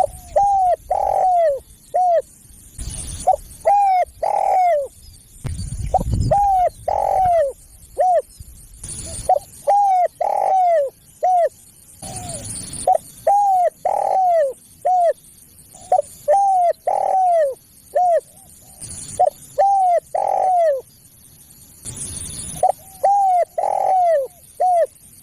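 Spotted dove (tekukur) cooing, a recorded caller call used to lure doves: phrases of several mellow coos, each phrase about a second long, repeated about every two to three seconds. Short bursts of hiss fill some of the gaps between phrases.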